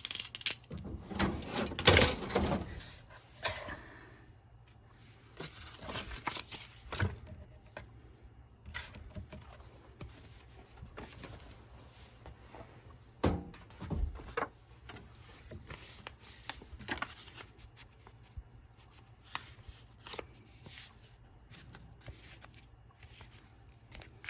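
A stack of folded paper being trimmed with a sharp knife along a ruler, with the sheets handled between cuts: irregular rustles, scrapes and light knocks, loudest in the first few seconds.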